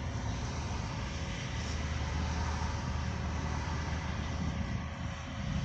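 Steady low rumble and hiss of a car driving, heard from inside the cabin.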